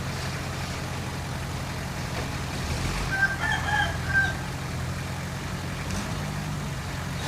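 Bulldozer's diesel engine running steadily, with a rooster crowing briefly about three seconds in.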